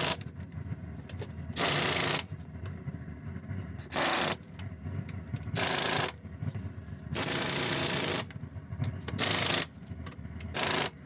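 Pneumatic impact wrench running in repeated short bursts, about one every second and a half, with a longer burst near the middle, as it spins on a truck wheel's nuts.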